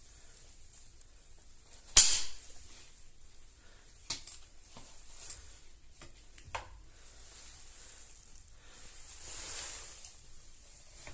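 A sharp click or knock about two seconds in, then a few lighter clicks, over a faint hiss that swells briefly near the end.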